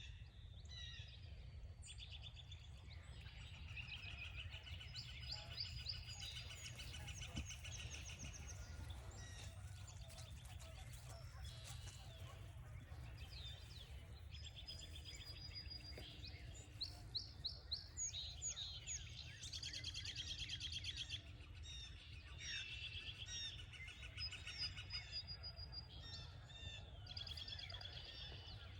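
Several songbirds singing and calling at once, a chorus of trills, rapid repeated notes and short whistles, over a low steady rumble.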